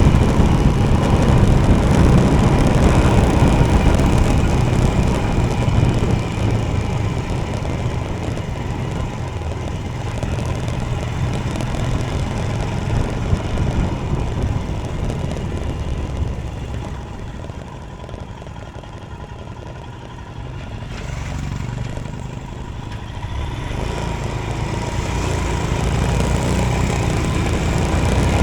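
Royal Enfield Himalayan's single-cylinder engine running while the motorcycle is ridden, with wind and road noise on the microphone; it grows quieter about two-thirds of the way through, then builds back up.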